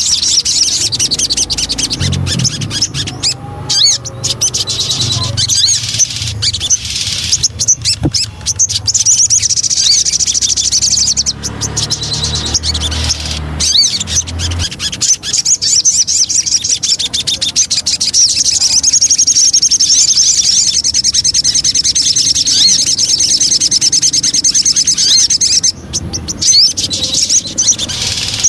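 Sogon bird singing: a loud, nearly unbroken stream of fast, high chattering trills, broken by a few short pauses. A low rumble runs under the song through the first half.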